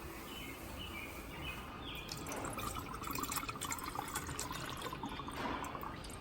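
Paint being poured and stirred in a mixing cup, with small liquid drips and clicks.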